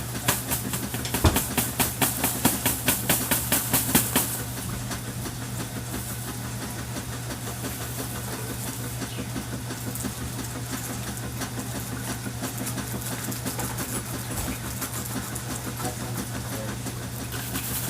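A 1995 top-loading washing machine running mid-cycle, its motor giving a steady hum. For the first four seconds a fast rattle of clicks, about five a second, sounds over the hum, then stops.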